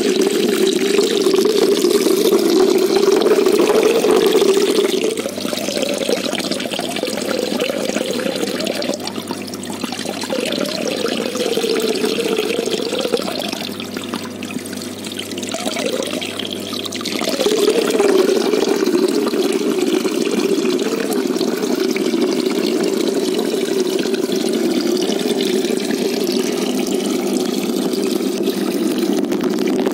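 Water running and splashing into a koi pond in a steady rush. From about 5 s to 17 s it turns softer and more muffled, with a faint low hum beneath it, then the full rush returns.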